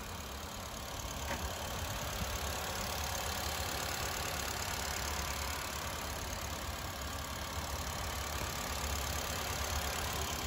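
Honda Amaze's 1.2-litre i-VTEC four-cylinder petrol engine idling steadily, heard close over the open engine bay.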